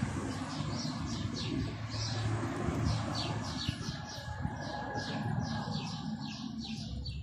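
Small birds chirping: a steady run of quick, high, falling chirps, several a second, over a low rustle of handling.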